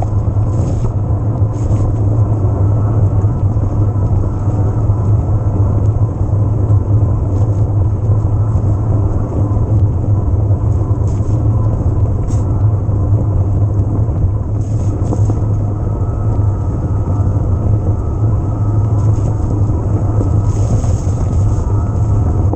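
Steady, loud low rumble of riding noise, wind and trail, on the microphone of a camera mounted on an electric mountain bike being ridden. A few brief faint high ticks come through now and then.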